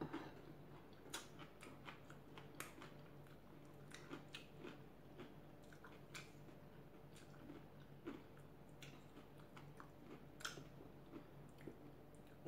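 Faint chewing, with irregular small crunches and soft clicks, from a person eating rice and lechon sisig by hand.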